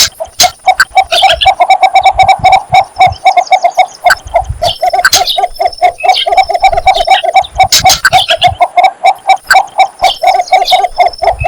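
Cinnamon bittern's courtship call: low notes repeated rapidly in a long, unbroken series, with higher chirps and sharp clicks over it.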